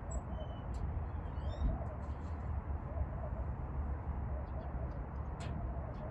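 A few short bird chirps in the first two seconds over a steady low background rumble, with a few faint clicks.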